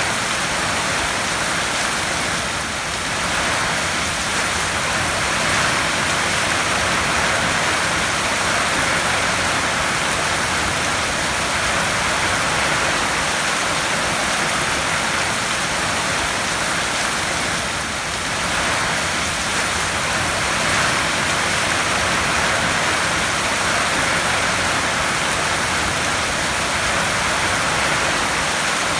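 Heavy rain falling on a tin roof: a dense, steady hiss in which no single drops stand out, easing very slightly twice.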